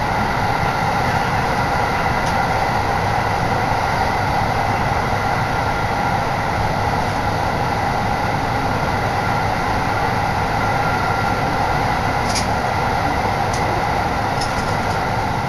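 Electric commuter train running at speed, heard from inside the carriage: steady rolling and running noise with wind blowing in at an open window, and a few faint ticks near the end.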